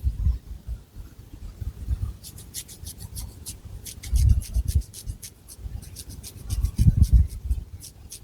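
Long fingernails scratching and rubbing through thick hair on the scalp: a run of quick, dry, crisp scratch strokes. Dull low bumps come about four and seven seconds in.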